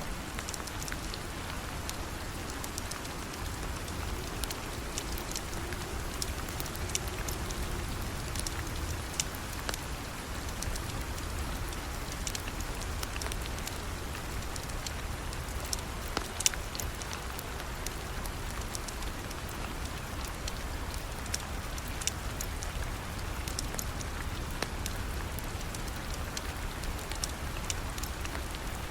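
Steady rain and a crackling wood fire: an even hiss of rain with sharp pops scattered throughout, over a low rumble.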